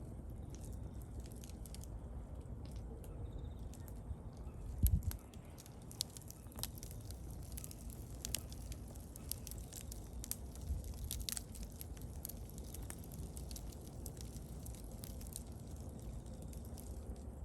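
Wood bonfire burning, with irregular sharp crackles and pops over a low steady rumble of the flames. A dull low thump about five seconds in.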